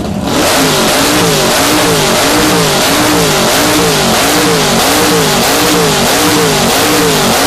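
Plymouth Duster's engine revved hard through open headers, the throttle blipped over and over so the exhaust note climbs and falls about every half second. Very loud, measured at 122 decibels.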